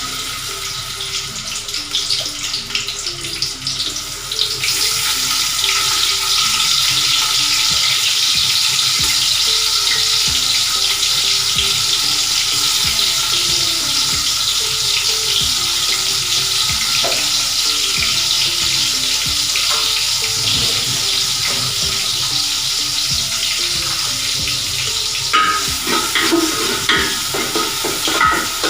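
Sliced onions sizzling as they fry in hot oil in a pot: a steady hiss that grows stronger about four seconds in. Near the end a spatula stirs and scrapes through them.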